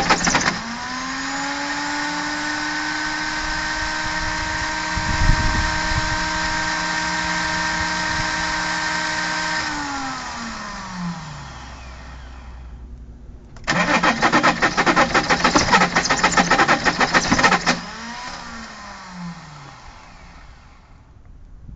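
Opel Omega 2.5 TDs turbodiesel cranked on its starter in a cold start, turning over without catching. First comes a steady rising whine that holds for about nine seconds and winds down. A second, rougher, rattling crank of about four seconds follows and also winds down.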